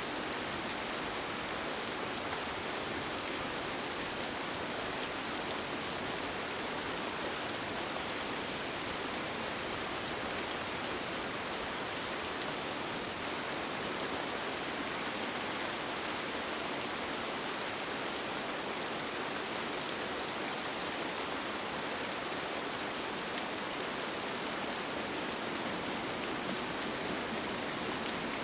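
Steady rain falling on a tent: an even, constant hiss with a few faint drop ticks scattered through it.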